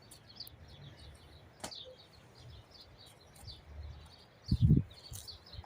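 Small birds chirping over and over in quick, short high notes. A sharp click comes about one and a half seconds in, and a loud low thump or rumble comes near the end.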